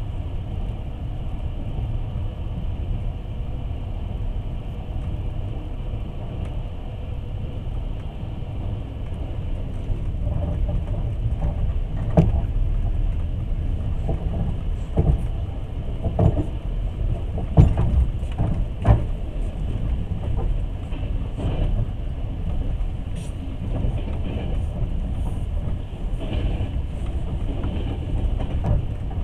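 Passenger train running, heard from inside the carriage: a steady low rumble of wheels on rails, with a run of sharp irregular knocks in the middle stretch.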